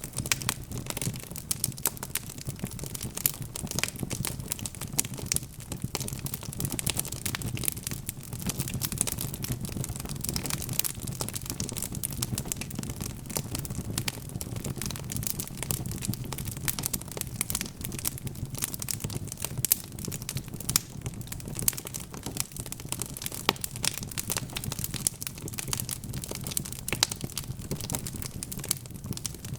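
Wood fire crackling steadily: a dense run of sharp pops and snaps over a low, steady rumble of the flames.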